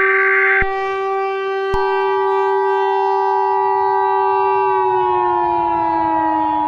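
Civil defense siren sounding a steady wail. A second, higher tone joins with a click about two seconds in, and the main pitch slides downward in the last couple of seconds as the siren winds down.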